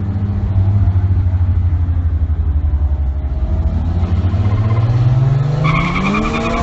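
Turbocharged Toyota Starlet drag car's 5E-FE four-cylinder running at low revs with a choppy, pulsing note, then revving steadily higher over the last two seconds. A steady high-pitched tone joins near the end.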